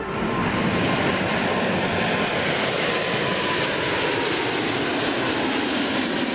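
Boeing 777-200F freighter's GE90 jet engines at takeoff thrust during rotation and liftoff: a loud steady rush of engine noise with a faint whine slowly falling in pitch.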